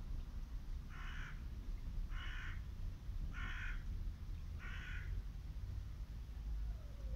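A bird calling four times, the calls short and evenly spaced a little over a second apart, over a steady low rumble.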